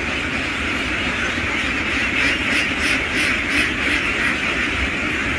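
A large flock of domestic ducks quacking together in a dense, continuous chorus.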